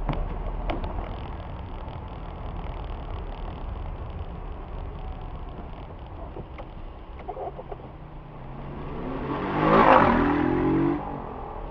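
Steady low road and engine rumble from a moving car. About eight seconds in, a vehicle's engine rises in pitch and grows loud, peaking around ten seconds before dropping away suddenly.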